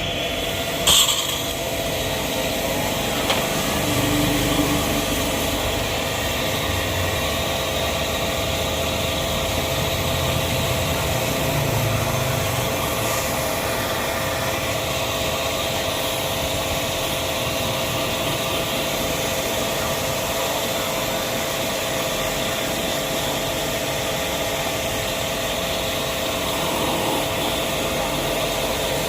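A motor running steadily, with a constant hiss and an even hum that do not change.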